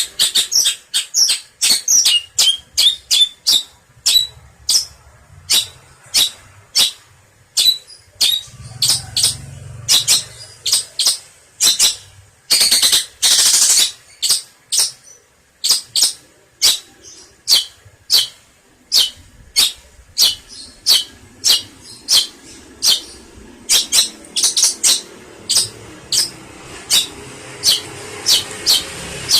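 Long-tailed shrike giving a long series of sharp, quickly falling calls, several a second at first and slowing later, with a longer harsh, rasping burst about halfway through.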